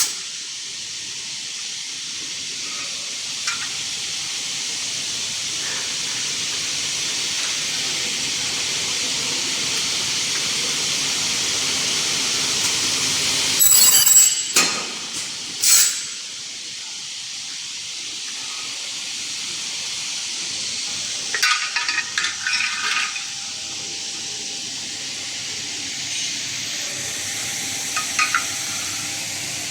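Semi-automatic dual-head circular saw machine for aluminium profiles running with a steady hissing noise that slowly builds. Two loud clanks come about 14 and 16 seconds in, and lighter metallic clinks come near 22 and 28 seconds.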